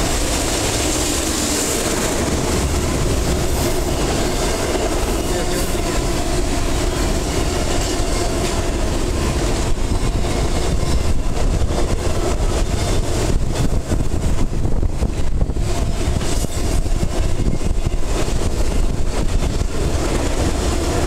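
Double-stack intermodal well cars of a freight train rolling past on the rails: a steady rumble of wheels on track with faint tones in it, and more frequent clicks and clatter in the second half.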